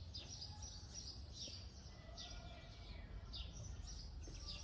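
Small birds chirping over and over, faint short high calls that fall in pitch, over a low steady rumble.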